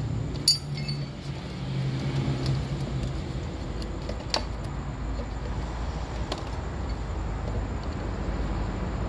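A sharp metallic clink with a brief ring about half a second in, then a few fainter clicks, over a steady low hum.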